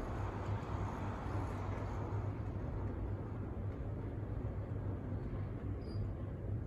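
Steady indoor background noise of a large hall: a low hum under an even hiss, with no distinct events.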